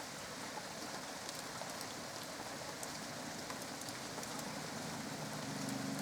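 Steady rain falling, with individual drops ticking close to the microphone. A low hum swells about five seconds in.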